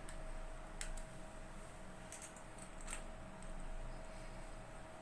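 A few sharp, scattered clicks of a small screwdriver working the screws of a washing machine's water inlet faucet connector, metal on metal, over a faint steady hum.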